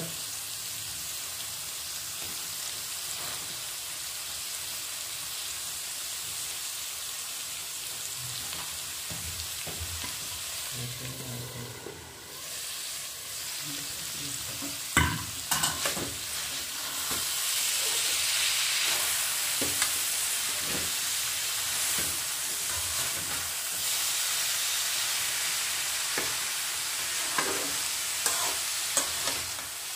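Shredded cabbage sizzling in oil and masala in a metal kadai, a steady hiss that grows louder after the middle. A few sharp knocks about halfway, and a wooden spatula stirring and scraping the pan near the end.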